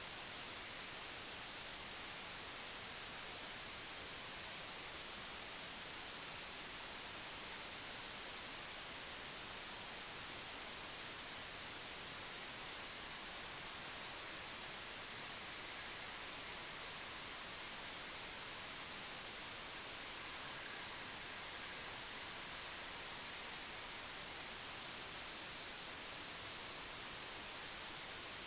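Steady, even hiss like static, strongest in the treble, with no other sound standing out and no change throughout.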